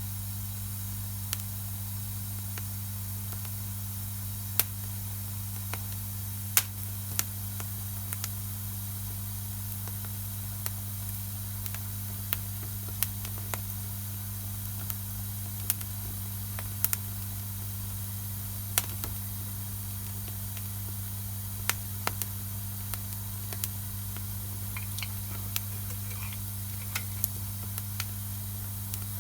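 Wood campfire burning: irregular sharp crackles and pops from the burning wood over a steady hiss and low hum.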